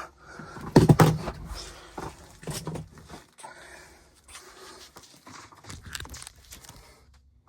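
Handling noises as parts and tools are moved about: scattered knocks and clatter with rustling, the loudest about a second in.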